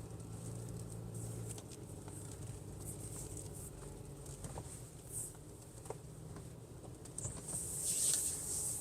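Slow-moving car heard from inside the cabin: a steady low engine and road hum with scattered small crackles and ticks from the tyres, and a brief louder hiss near the end.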